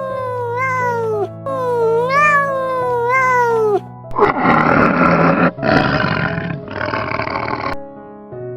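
A cat meowing twice in long calls that rise and then fall, followed by three harsh, loud roars from a large animal. Soft background music runs underneath.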